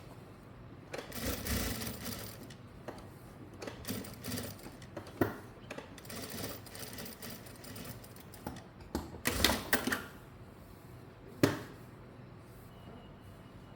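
Sewing work on fabric: several short, irregular bursts of rustling and mechanical noise, the loudest about two thirds of the way in, with a few sharp clicks between them.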